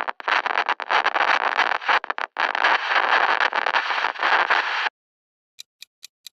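Radio static: a dense, steady hiss with brief crackling dropouts, cutting off about five seconds in. A clock then begins ticking, about three ticks a second.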